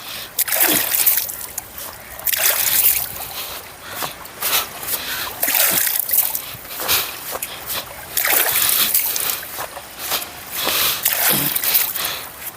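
Water splashed and scooped by hand in repeated bursts every second or two, washing mud off after a fall.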